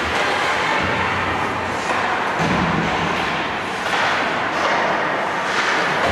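Ice hockey game noise in a rink: a steady wash of sound with a few dull thuds near the start.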